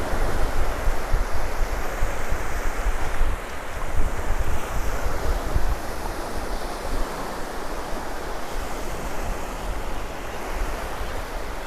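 Surf washing on the beach, with wind buffeting the microphone in gusts that ease after about six seconds.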